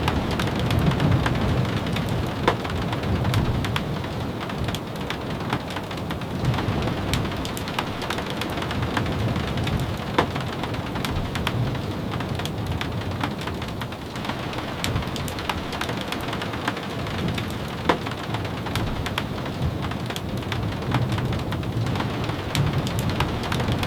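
Steady rain falling on a wooden cabin, with many scattered sharp ticks of drops and a low rumble underneath.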